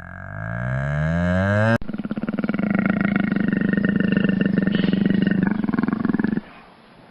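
Large animal calling: a rising, pitched call cut off short about two seconds in, then a long, rough, rapidly pulsing roar that stops about a second before the end.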